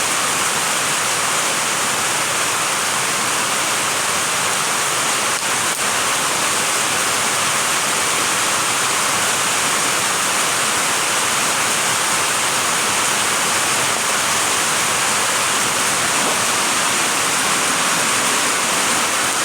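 Steady rushing hiss of falling water.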